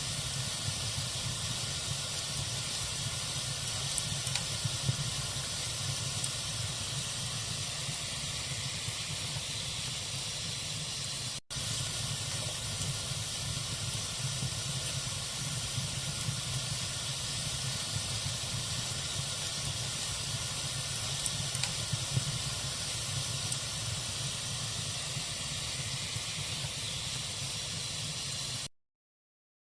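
Log fire in a fireplace burning with a steady hiss and occasional faint crackles. The sound drops out for an instant about a third of the way through and cuts to silence near the end.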